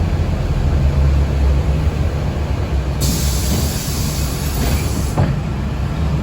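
Low rumble of a city transit vehicle's cabin while riding. A high hiss starts suddenly about halfway through, and there is a single knock near the end.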